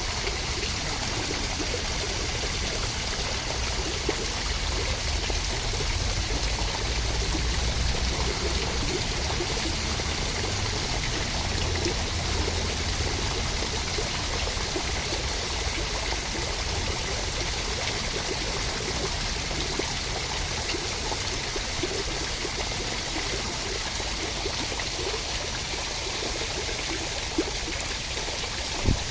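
Steady, even rushing of water with no break, used as a sleep sound; a brief click sounds just before the end.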